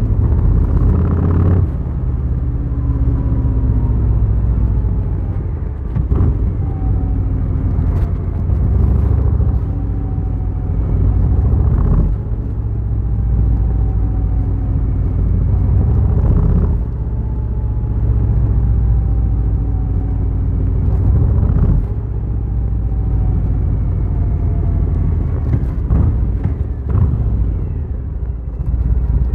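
Harley-Davidson Fat Boy's V-twin engine running hard on the road, its deep note swelling and easing every few seconds as the throttle is worked and the bike shifts through the gears.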